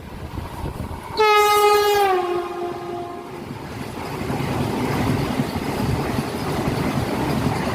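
A train horn blows for about two seconds, its pitch dropping partway through. After it, the rumble and clatter of a train running on the rails builds up.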